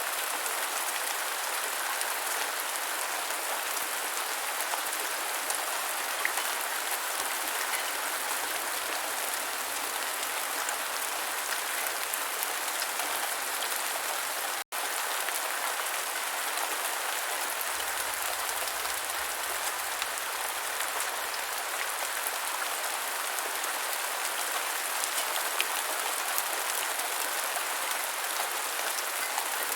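Steady rain falling on the ground: an even hiss with scattered faint drop ticks. It cuts out for an instant about halfway through.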